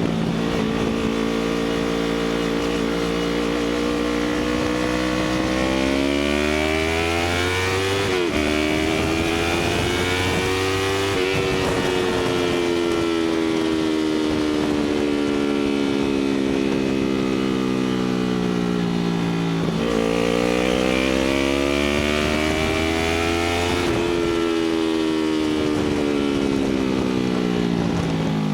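Yamaha YZF-R3 parallel-twin engine through an Akrapovic titanium slip-on exhaust, heard from onboard while riding. The engine note climbs under acceleration with two quick dips at upshifts, falls away in a long run as the bike slows, then climbs and falls once more.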